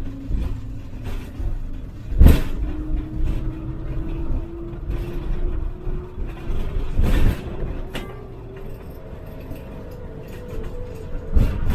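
Road rumble and rattling inside a towed Rockwood GeoPro travel trailer, heard from within the camper. Several sharp jolts come as it goes over bumps, and a faint hum rises slowly in pitch.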